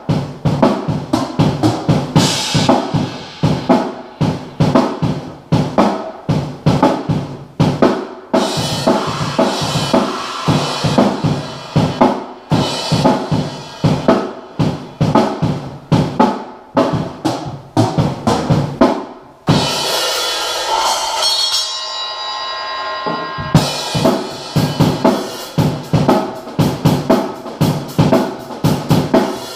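Acoustic drum kit played with rapid strokes on snare, bass drum, toms and cymbals. About twenty seconds in the drumming stops while a cymbal rings out for a few seconds, then the playing starts again.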